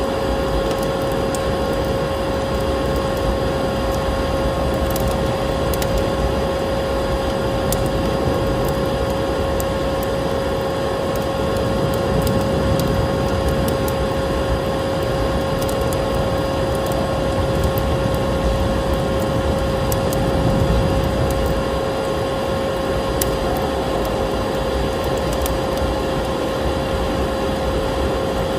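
Electric vacuum cleaner running steadily, a constant motor whine over a rushing noise, mixed with the scattered crackles and pops of a wood fire burning in a fireplace.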